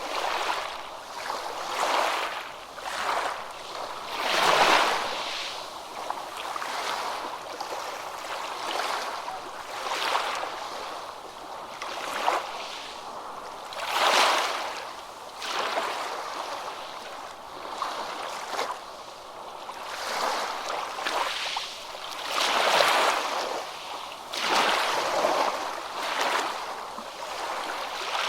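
Ocean waves breaking and washing in, a rushing hiss that swells and ebbs every second or two. Bigger surges come a few seconds in, about halfway, and again near the end.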